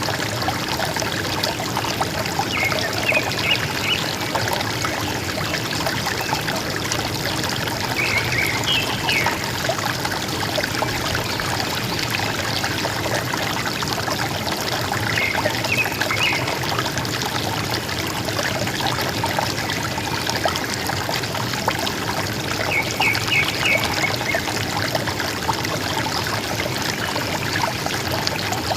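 River water running and gurgling steadily. A forest bird calls four times over it, each a short burst of quick high notes, spaced roughly six to seven seconds apart.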